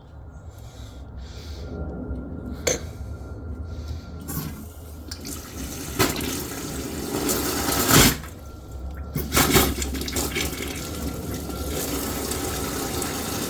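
Water rushing out through a pipe as a newly fitted mixer tap's supply line is flushed, building up about four seconds in and then running steadily, with a few sharp knocks along the way.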